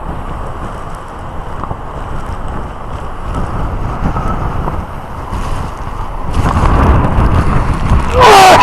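Typhoon-force wind buffeting a phone's microphone in a dense, rumbling rush, gusting louder about six seconds in.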